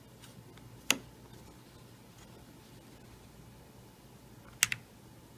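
Metal catch of a Lion LS8900 realtor lock box snapping as the box is worked shut and open: one sharp click about a second in, then a quick double click near the end.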